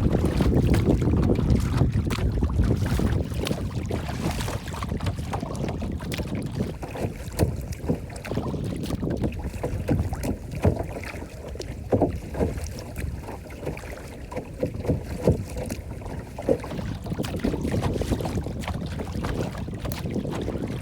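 Water lapping and splashing with wind rumbling on the microphone, broken by many short irregular clicks and splashes.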